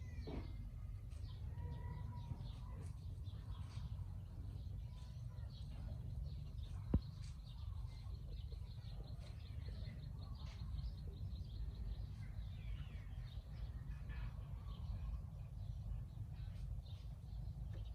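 Birds chirping faintly over a steady low rumble of outdoor background noise, with one sharp click about seven seconds in.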